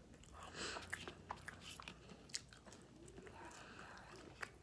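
Soft chewing while eating fast food, with a few small wet mouth clicks.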